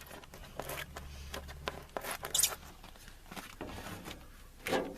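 Crinkling, tearing and small clicks of self-adhesive duct insulation being handled, its backing peeled and the sheet pressed onto the inside of a truck door panel, with a louder rasp about two seconds in.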